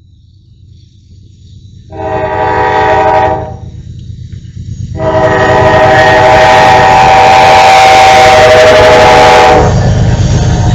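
Train horn blowing a short blast, then a long one with several tones sounding together, over the rising low rumble of the approaching train. The rumble is strongest near the end, after the horn stops.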